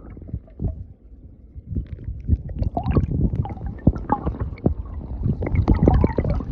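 River water gurgling and splashing, a dense run of irregular knocks and bubbling over a low rumble, quieter for about the first second and busier after that.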